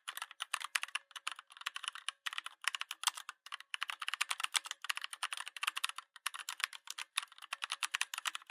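Fast typing on a computer keyboard: a rapid, continuous run of key clicks broken by a few short pauses.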